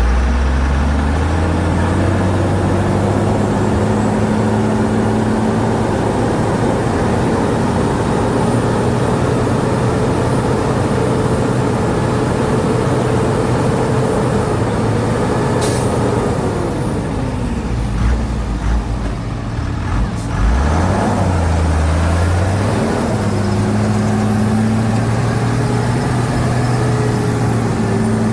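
Shantui DH17C2 bulldozer's diesel engine working under load: it revs up at the start, holds steady, drops back about two thirds of the way through, then revs up again. A brief sharp click just before the drop.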